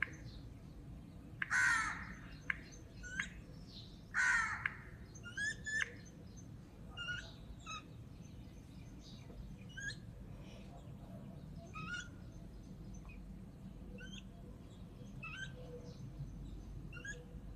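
Birds calling: two loud, harsh squawks a couple of seconds apart in the first five seconds, then a scattering of short, thin chirps.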